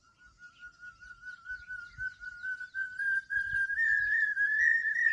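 A bird's long call: a rapid, even series of short whistled notes, several a second, that climbs slowly in pitch and grows louder throughout. Faint chirps of other small birds sound behind it.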